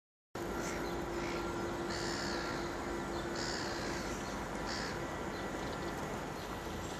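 A bird calling four times, each call short and about a second and a half apart, over a steady low hum of boat engines on the water.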